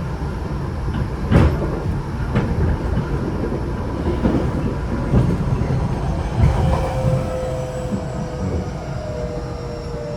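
Tokyo Metro 8000 series electric train running, heard from inside the car: a steady rumble of wheels on rail with a couple of sharp rail-joint knocks early on. From about six seconds in, a faint whine from the Mitsubishi IGBT-VVVF inverter and traction motors comes in and slowly falls in pitch.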